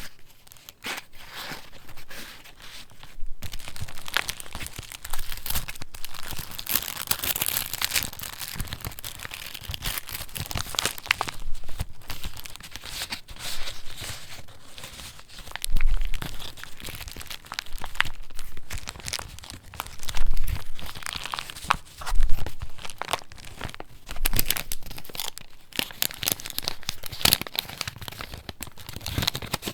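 Paper pages of a handmade junk journal being handled and turned: continuous rustling and crinkling, broken by sharp taps and a few louder page flips.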